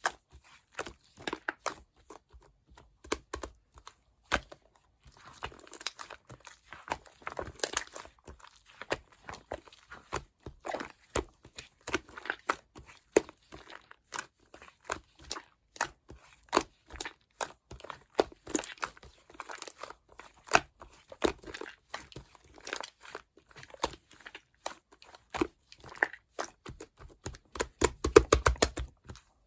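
Two-layer slime being squished and pressed by hand, giving a string of irregular sticky clicks and crackling pops, with a quick dense burst of pops near the end.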